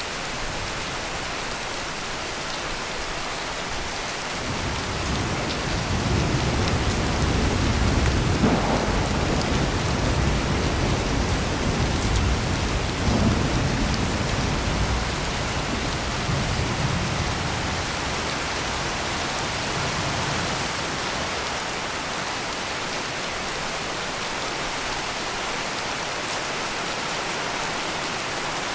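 Steady heavy rain with a long roll of thunder that swells about five seconds in, peaks in the middle and fades away.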